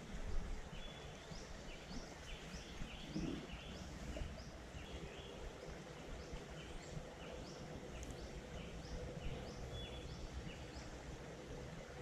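Songbirds singing: repeated groups of short, high, falling notes, over a steady low outdoor rumble.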